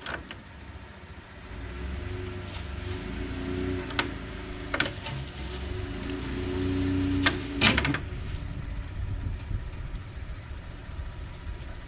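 A motor vehicle running, a low rumble with a steady hum that grows louder over a few seconds and then falls away, with a few sharp knocks and clunks about halfway through.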